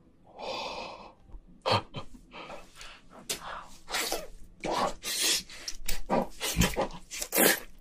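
Close-miked eating of king crab leg meat: wet chewing and lip-smacking mouth sounds, a quick irregular run of short smacks and clicks after a softer sound near the start.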